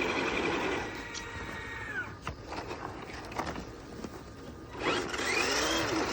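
Small electric RC car motor whining under load, dying away about a second in, with a few light clicks after. Near the end comes a child's high-pitched squeal that rises and falls.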